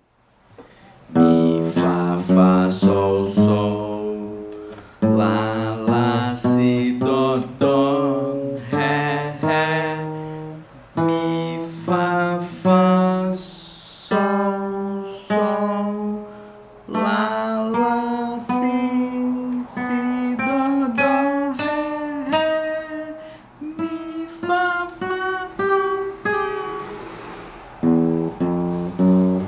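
Acoustic guitar playing single notes one after another up the neck, each plucked note ringing and fading, in short runs with brief pauses between them, with a voice singing along with the pitches.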